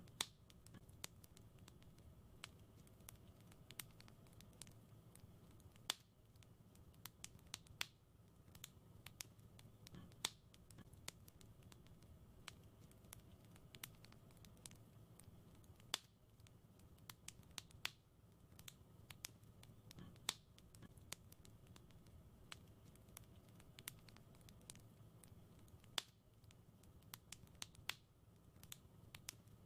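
Wood fire crackling in a fireplace: irregular sharp pops and snaps, several a second with a louder crack every few seconds, over a faint low rumble.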